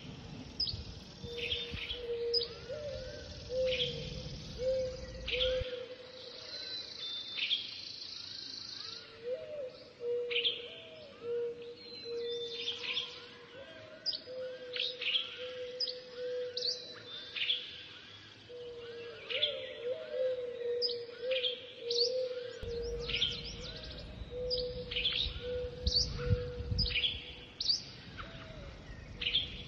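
Several birds singing, with many quick high chirps that sweep down in pitch over a steady, wavering lower tone. Light wind rumbles at the start and again from about two-thirds of the way in.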